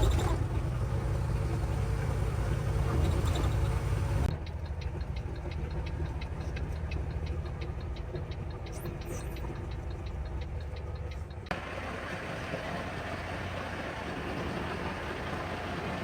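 Truck's diesel engine running, heard in three short clips cut together. In the middle clip a fast, even ticking of about five a second sits over the engine.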